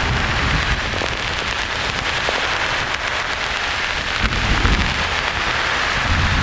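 Steady, even hiss of white noise layered with low rolling thunder. The rumble dies down about a second in and swells again a little after four seconds.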